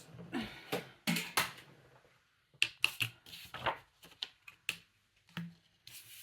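Paper and craft tools being handled on a tabletop: irregular light taps and clicks with some paper rustling, busiest in the first few seconds.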